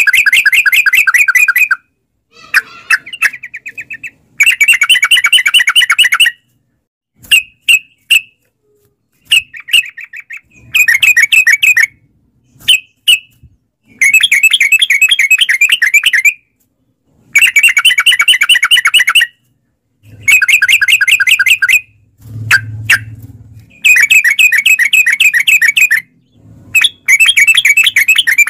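Yellow-vented bulbul (trucuk) singing in a rapid chattering run: bursts about two seconds long of fast bubbling notes, repeated every few seconds with short single calls between them.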